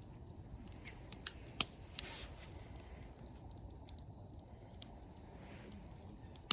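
A few scattered sharp clicks and taps, one louder than the rest about a second and a half in, over a low steady background rumble.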